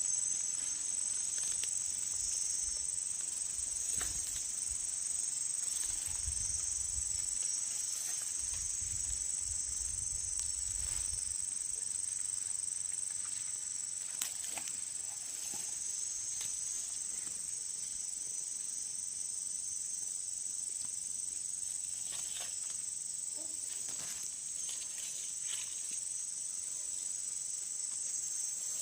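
Steady high-pitched chorus of insects, unbroken throughout, with a few faint knocks and a soft low rumble in the first half.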